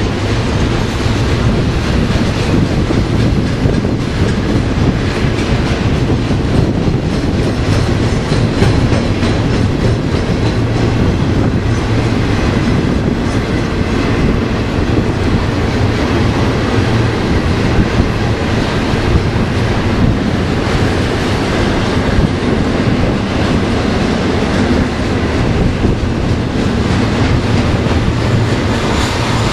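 Double-stack intermodal freight train's well cars rolling past on the rails: a steady, loud rumble of steel wheels on track.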